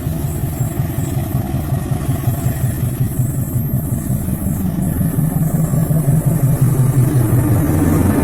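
KAI CC206 diesel locomotive's engine running with a steady low rumble, growing gradually louder.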